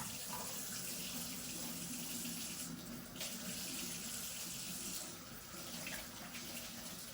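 Sink tap running steadily while hands are washed under the stream, the flow sound changing briefly about three seconds in and again near five seconds.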